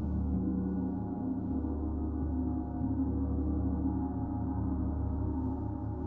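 Gong sounding in a sound bath: a steady, full wash of many overlapping ringing tones, strongest in the low range, with no distinct strike.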